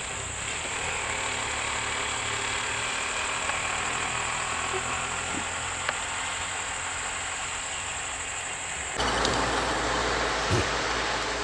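Vehicle engine idling steadily; about nine seconds in, the background switches abruptly to a louder, noisier hiss.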